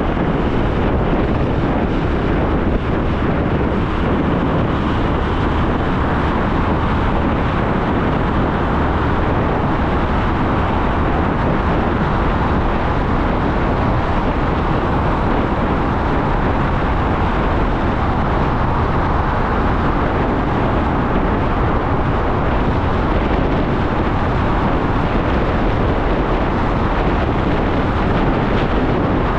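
Motorcycle underway at a steady speed: a continuous rush of wind, engine and road noise.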